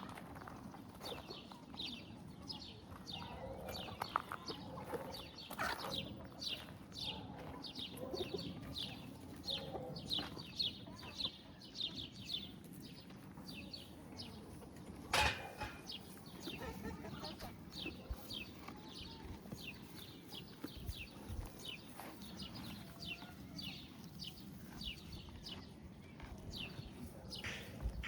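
Birds calling over and over in short, high, falling chirps, two or three a second, with some lower clucking-like calls in the first part. A single sharp click comes about halfway through.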